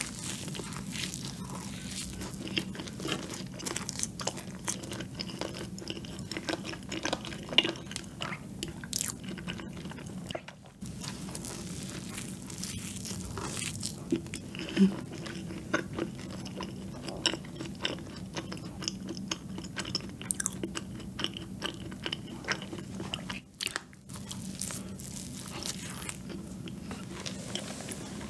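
A person biting and chewing a cream-filled donut close to the microphone, with many small clicks and crunches throughout. A faint, steady low hum runs underneath.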